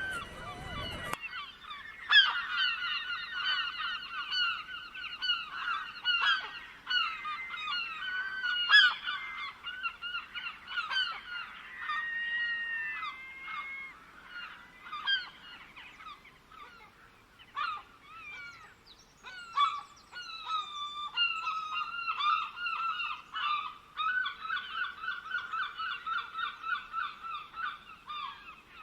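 Birds calling in a dense chorus of rapidly repeated, chattering notes, some in long even runs. A rushing noise stops abruptly about a second in.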